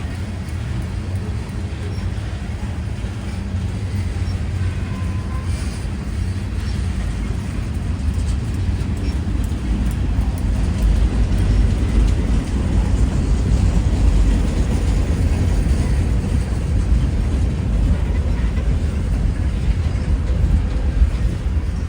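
Freight train rolling past, a steady low rumble that builds over the first several seconds and stays strong.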